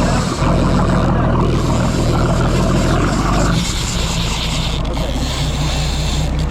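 Fishing boat's engine running steadily under a rushing noise; a little past halfway the engine note shifts lower and the hiss grows brighter.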